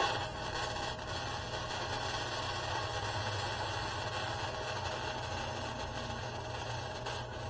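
Electric arc welding on rusted steel: the arc strikes suddenly and runs as a steady hiss, breaking briefly about seven seconds in before picking up again.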